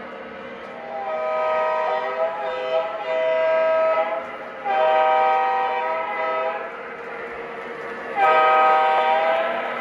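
Lionel model diesel locomotive's onboard sound system blowing a multi-chime air horn: a long blast, a second long blast, then after a pause of about a second and a half a louder final blast, over a steady running rumble.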